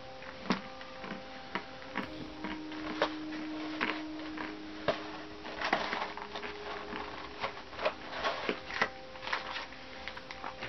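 Someone eating a crunchy snack: irregular crisp crunches and clicks as it is bitten and chewed.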